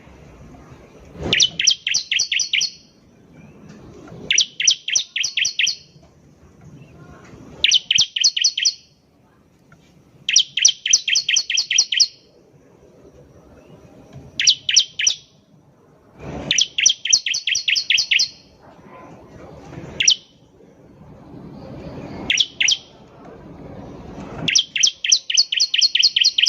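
Bar-winged prinia (ciblek) singing: about nine quick rattling bursts of high, evenly repeated chip notes, each lasting about a second, every few seconds. A low rumble rises and falls between the bursts.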